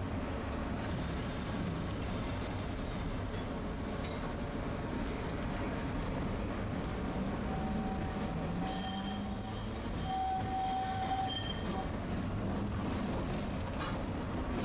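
Tosaden streetcar running along its tracks: a steady rumble of wheels and running gear, with a high-pitched wheel squeal from about nine to eleven and a half seconds in.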